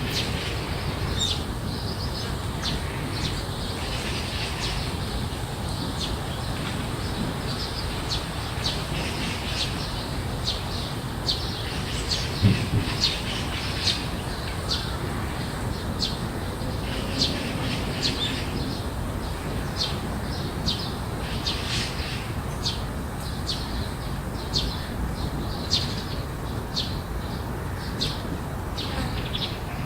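Garden birds giving short, sharp chirps over and over, against a steady low background rumble. There is a single sharp thump about twelve seconds in.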